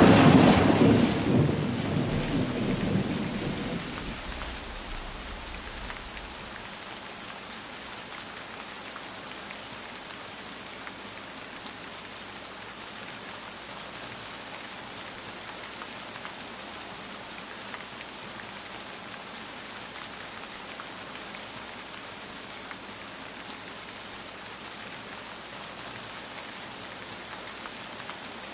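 A roll of thunder dying away over the first few seconds, then steady rain falling without a break.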